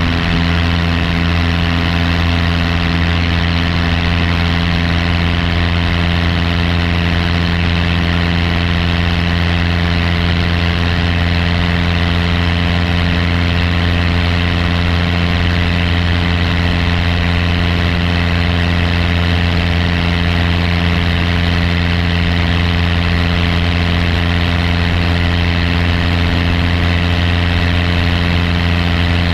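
Piper light aircraft's piston engine and propeller running steadily during takeoff, a loud even drone with no change in pitch.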